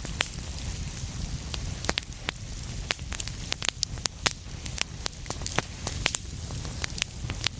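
Wood fire burning in a fireplace: a steady low rumble and hiss with many sharp crackles and pops at irregular moments.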